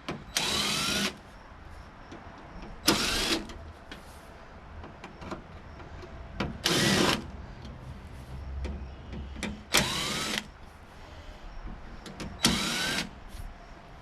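Power drill running in five short bursts about every three seconds, its pitch rising as it spins up each time, driving out screws while a tankless water heater is being taken apart.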